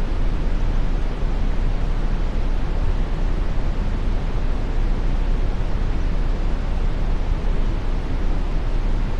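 Steady brown noise: an even, deep rushing hiss, heaviest in the bass, with no change.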